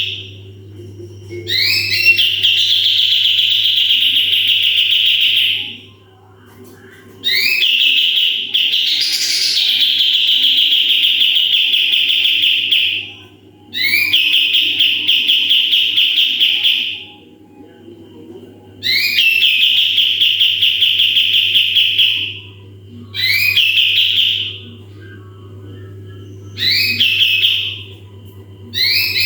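Cucak kapas tembak, a bulbul, singing its "tembakan" song over and over: each phrase opens with a few quick rising notes and runs into a long, fast trill held at one high pitch, some lasting several seconds, with short pauses between. A steady low hum runs underneath.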